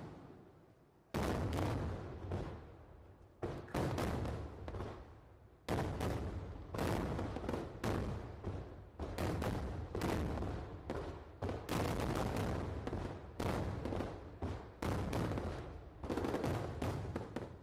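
Aerial fireworks shells bursting, each a sharp bang that trails off. A few single bangs a couple of seconds apart, then a dense barrage of overlapping bursts from about six seconds in.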